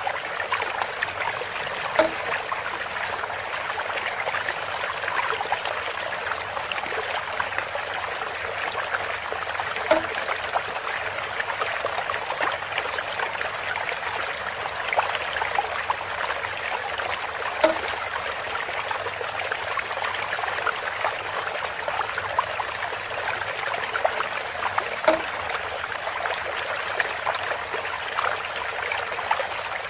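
Water trickling steadily from a bamboo water feature, with a short hollow knock about every seven to eight seconds.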